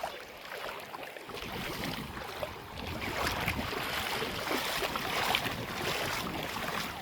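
Small ocean waves washing and lapping in the shallows, with wind buffeting the microphone; the water gets louder about a second in.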